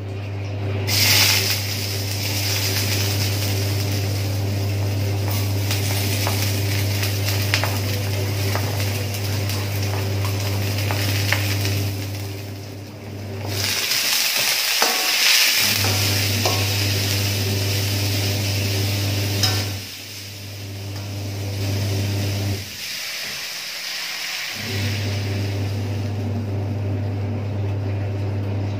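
Chopped shallots, garlic, chillies and tomato sizzling loudly in hot oil in an aluminium wok, the hiss surging about a second in and again around the middle as more is tipped in off the board, with a metal spatula ticking and scraping against the pan as it is stirred. A steady low hum runs underneath and drops out a few times.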